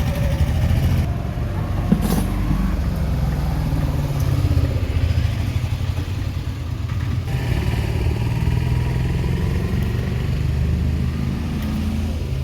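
A motor vehicle's engine runs steadily, its pitch drifting up and down. A single sharp clink comes about two seconds in.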